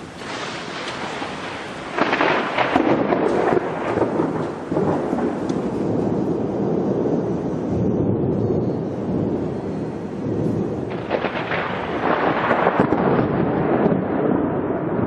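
Thunderstorm: thunder breaks suddenly about two seconds in and rumbles on over steady rain, with another loud roll of thunder later on.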